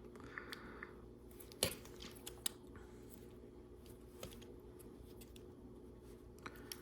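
A few faint clicks and taps of small plastic LEGO Technic pieces being handled, the clearest one about a second and a half in, over a low steady room hum.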